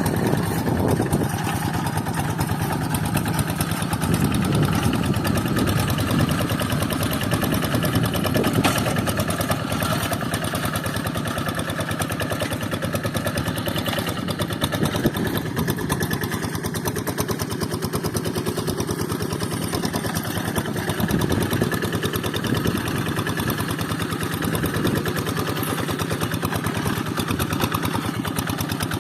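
Quick Zeva G3000 hand tractor's single-cylinder Kubota diesel engine running steadily with a rapid, even firing beat while working a rice paddy.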